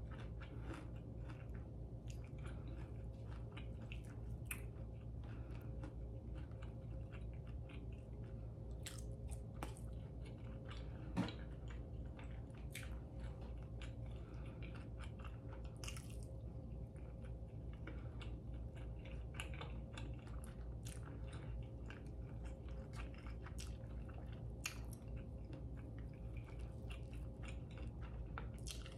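Close-up chewing of pancakes and breakfast sausage: a run of small moist smacks and crackles from the mouth over a steady low hum, with one sharp click about eleven seconds in.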